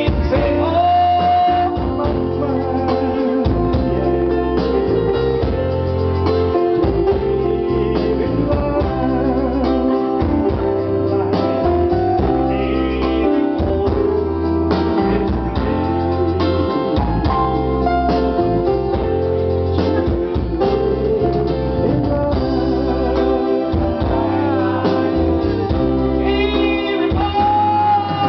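Live band music: an electronic keyboard with an organ sound and a guitar over a pulsing bass beat, with a sung melody at times.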